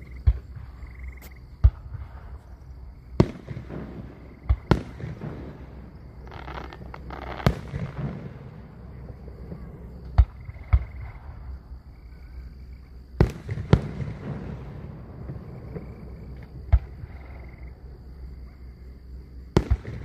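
Aerial fireworks shells bursting: about a dozen sharp bangs at irregular intervals, some in quick pairs, each followed by a short echoing tail.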